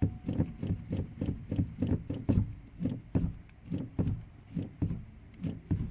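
A car engine cranking on its starter without catching, turning over in a slow, even rhythm of about three compression pulses a second: a hard start.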